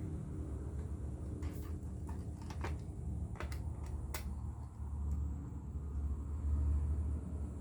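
A vehicle engine running at a steady idle, with several sharp clicks and knocks in the first half.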